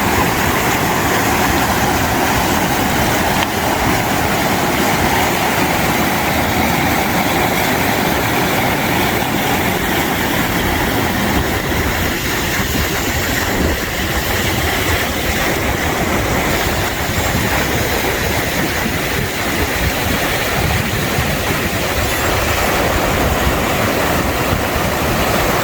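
Loud, steady rush of a waterfall and river heard at close range.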